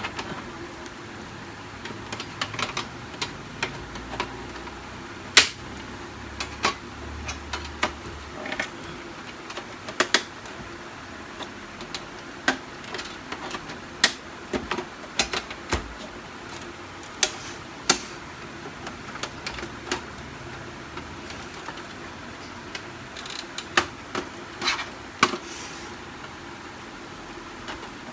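Irregular sharp plastic clicks and knocks as the outer covers of a Canon LBP 6030 laser printer are handled and their snap-lock latches are pried free, over a faint steady hum.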